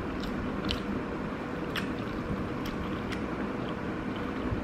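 Quiet close-miked chewing of rice, with a handful of sharp wet mouth clicks, over a steady hiss and a faint hum.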